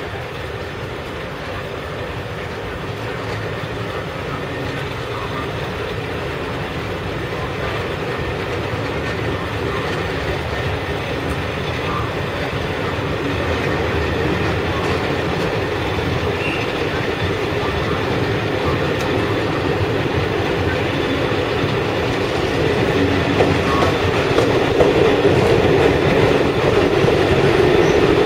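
Peppercorn A1 Pacific steam locomotive 60163 Tornado working its train away from a station, its running and the rumble of the train getting steadily louder as it draws nearer.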